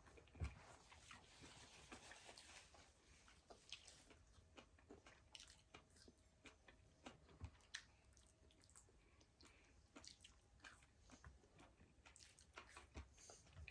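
Faint close-up eating sounds: chewing, with many small wet mouth clicks and smacks scattered irregularly.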